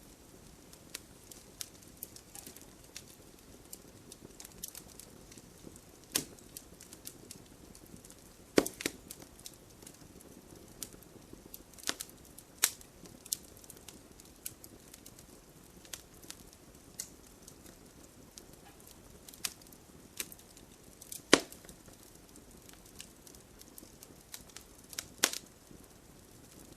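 Wood campfire burning: a low steady hiss with irregular crackles and several sharp, louder pops as the wood splits in the heat.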